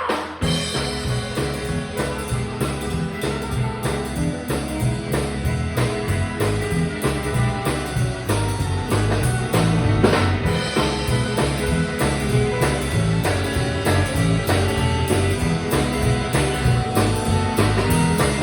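Instrumental break of a blues-rock song: a drum kit keeps a steady beat under a walking bass line and guitar, with no singing.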